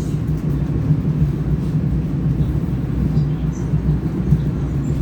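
Passenger train running along the line, heard from inside the carriage: a steady, even low rumble.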